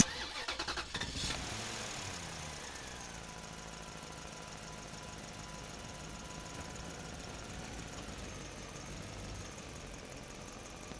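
Small DC motor of a DIY toy mini tractor running, with its gears whirring. A few clicks come in the first second, then the pitch drops over the next couple of seconds and settles into a faint, steady hum.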